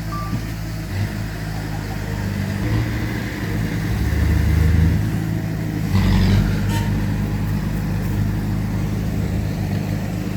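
Heavy diesel engines of earthmoving machinery running, the engine note shifting and swelling as they work, loudest about four to five seconds in. A sharp clank comes about six seconds in, with a lighter one just after.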